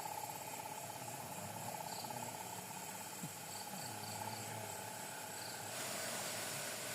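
Night insects trilling steadily in a fast pulsing rhythm, with a few short, higher chirps over the top. A faint hiss rises slightly near the end.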